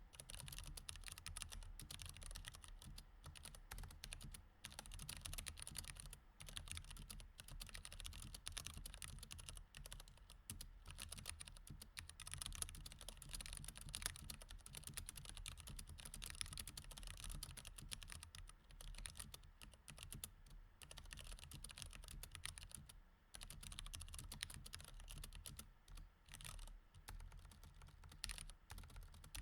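Mechanical keyboard with Cherry MX Red switches being typed on fast and continuously, a dense run of key clicks broken by a few brief pauses.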